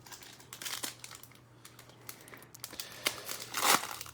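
Crinkling and tearing of a trading-card pack's foil wrapper, in several short irregular rustles, the loudest near the end.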